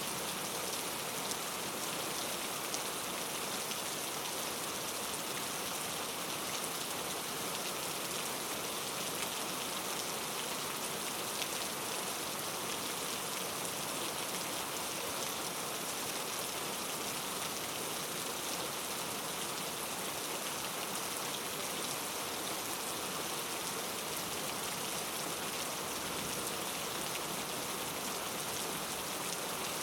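Steady rain falling and pattering on a surface, an even continuous hiss with faint scattered drop ticks.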